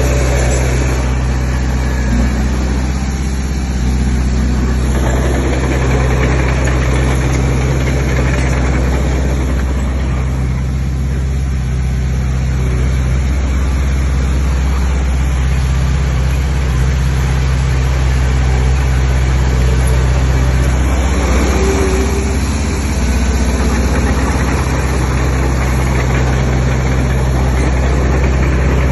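Heavy diesel engine of earthmoving machinery running steadily, with a deep, constant engine note throughout.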